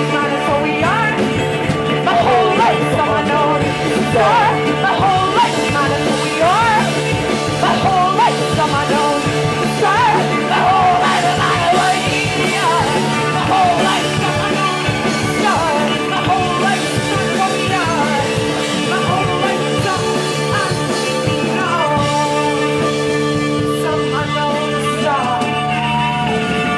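Live rock band playing with a drum kit keeping a steady beat under a wavering, sliding lead melody line.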